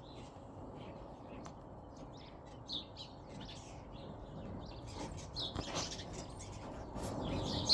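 Birds chirping outdoors in winter: scattered short, high chirps that come more often in the second half, over a steady low background noise.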